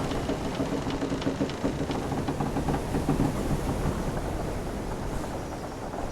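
Wooden sailing ship's timbers creaking under a steady low rumble of sea, with scattered small clicks and ticks. The creaking is strongest in the first three seconds, then eases.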